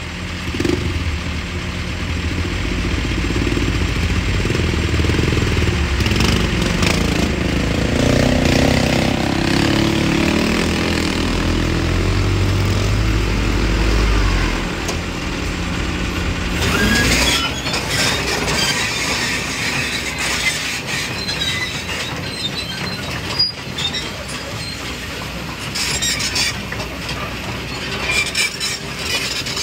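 Excavator's diesel engine working under load for about the first sixteen seconds, its pitch rising and falling as it works, then fading out. A hissing, rattling clatter with scattered clicks takes over for the rest.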